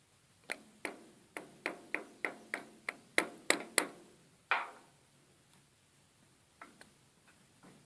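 Hammer tapping a new U-joint bearing cap into the axle shaft yoke: about a dozen sharp metallic taps with a ringing ping, roughly three a second, the last few loudest, then one strike with a longer ring.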